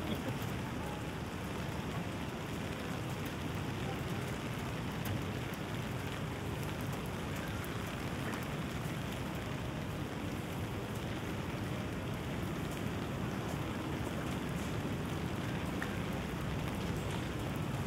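Steady rain falling, with scattered drops pattering close by.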